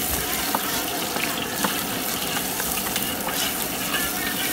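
Ginger, onion and garlic sizzling in hot oil in a steel wok as they are sautéed, with a steady hiss. A metal ladle stirring them gives a few short scrapes and clicks against the pan.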